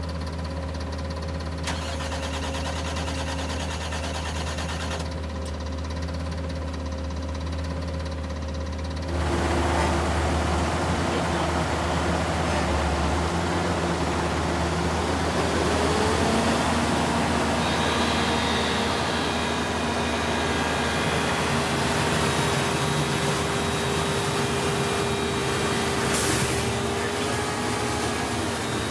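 Sewer flush truck's engine running steadily, then about nine seconds in its vacuum system comes on with a loud rushing suction noise over the engine. A machine whine within it steps up in pitch a few seconds later.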